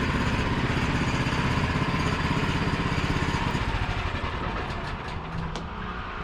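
Gasoline engine of a Woodland Mills portable bandsaw sawmill running steadily, then throttled back to idle about four seconds in.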